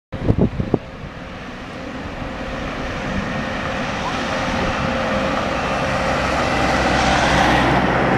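Scania K360 coach engine running, growing steadily louder over several seconds. A few sharp knocks sound in the first second.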